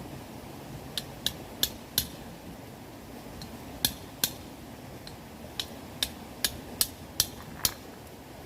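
Firewood crackling in a wood-burning stove: about a dozen sharp, irregular pops and snaps over a steady low background rush.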